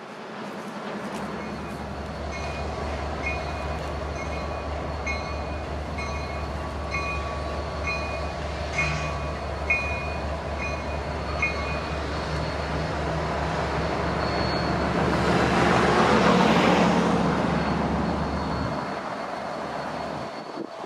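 A diesel train running with a steady deep rumble while a bell rings about once a second for the first half. A rush of train noise then swells to its loudest in the later part and fades away.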